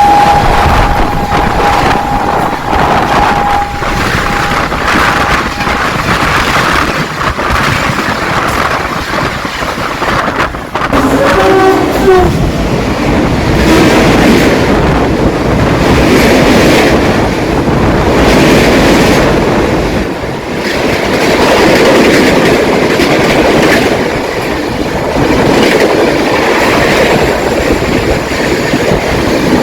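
Locomotive horn held on one steady note that fades out about six seconds in, followed by a second, shorter horn call near the middle. A train then runs past with wheels clattering over the rail joints.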